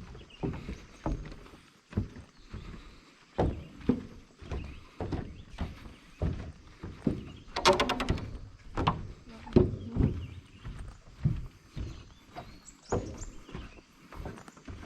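Footsteps going down a long flight of stairs, a dull thud about once every second, with a short rattle about eight seconds in.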